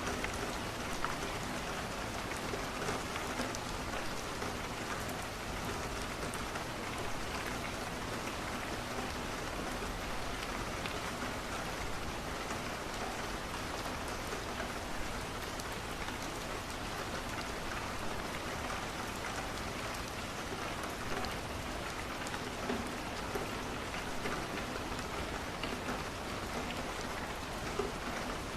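Steady rain falling on a window, an even hiss with scattered small ticks of drops.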